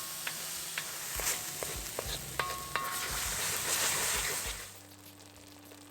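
Tomatoes and ginger-garlic paste sizzling in hot ghee in a metal kadai as they are stirred, the spoon clicking and scraping against the pan with a few brief metallic rings. The sizzle cuts off abruptly near the end, leaving a faint steady hum.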